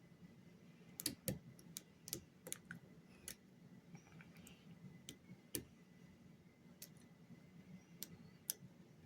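Faint, irregular small metallic clicks, about a dozen, of a lock pick working the pin stack of a pin-tumbler lock under tension.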